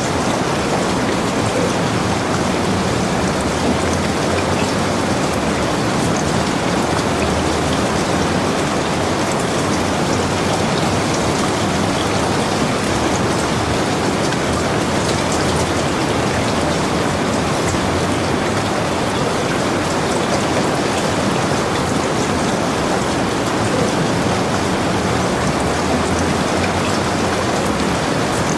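Heavy rain falling steadily: an even, unbroken hiss with scattered faint drop ticks.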